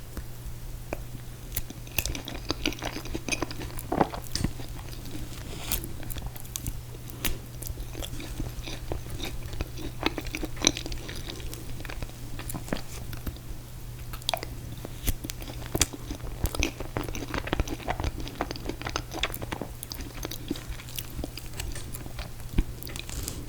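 Close-up eating sounds of ice cream cake with mint chocolate chip ice cream: wet chewing and biting with frequent small clicks and smacks, over a steady low hum.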